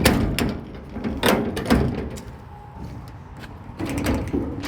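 Metal service-body compartment doors and their latches being handled: a run of clicks, knocks and rattles, busier near the end.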